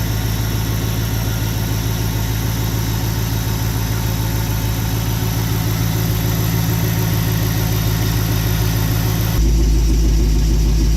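Jeep Grand Cherokee SRT8's 6.1-litre HEMI V8, with a Flowmaster exhaust and K&N intake, idling steadily while warming up after a cold start. About nine seconds in, the sound turns deeper and more muffled.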